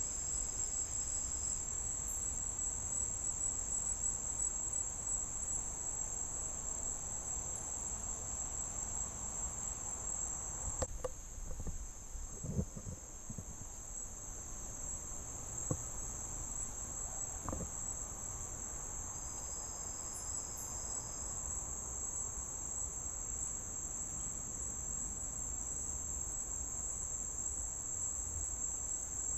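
Crickets chirring in a steady high-pitched chorus, with a few faint knocks about halfway through.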